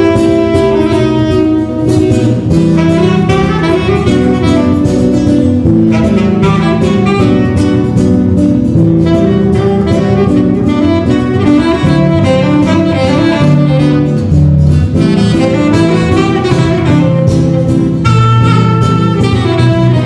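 A small jazz trio playing live: a busy melody line with quick runs over shifting low bass notes.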